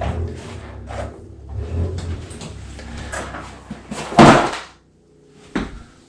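Objects being handled and moved about, with scattered knocks and rustles, then one loud bang about four seconds in and a single click near the end.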